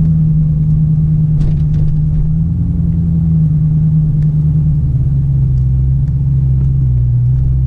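Supercharged 6.2-litre V8 of a 2017 Dodge Challenger Hellcat running at low speed, a steady low drone. Its pitch drops a little about two-thirds of the way in as the car eases off.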